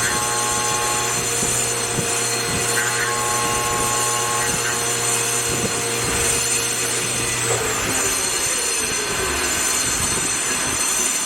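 CNC vertical machining center running, with a 10000 rpm BT40 spindle, giving a steady mechanical whine made of several held tones. About seven and a half seconds in, the low hum stops and a tone slides down in pitch as the spindle slows.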